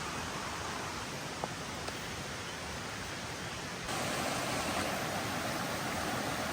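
Steady rain hiss with a single faint tap about a second and a half in. It steps up suddenly louder and fuller about four seconds in.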